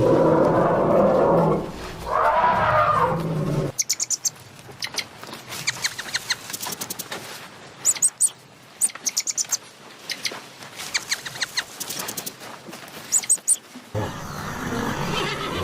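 Two loud, long, low-pitched animal calls, then birds chirping in quick high clusters for about ten seconds. A different, rougher animal sound starts near the end.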